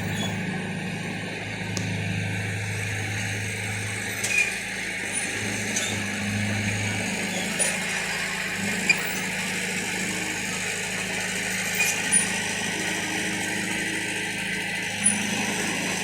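Crawler bulldozer's diesel engine running steadily, with a few short, sharp metallic clinks scattered through.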